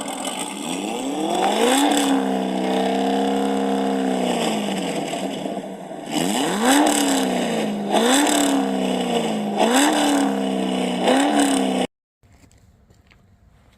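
Built 350ci V8 through a 2.5-inch dual exhaust being revved. One long rev is held for a few seconds, then four quick throttle blips follow about every second and a half. The sound cuts off suddenly near the end.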